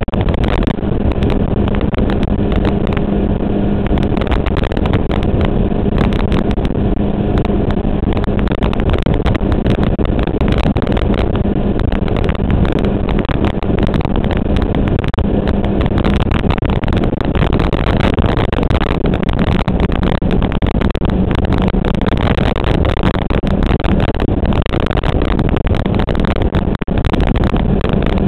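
1994 Suzuki GSX-R 750's inline-four engine running steadily at cruising speed, its note holding one pitch, mixed with wind rushing over the fairing-mounted action-camera microphone.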